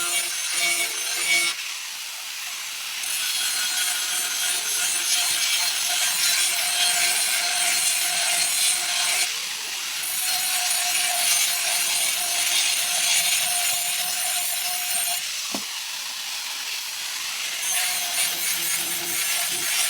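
Rusted steel blade being ground for sharpening: a steady abrasive rasp in long passes, broken by short pauses. One sharp knock about halfway through.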